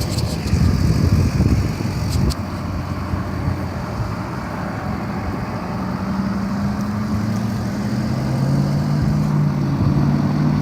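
Road traffic noise with a low rumble, a few sharp clicks in the first couple of seconds, and a motor vehicle's engine humming steadily from about halfway through.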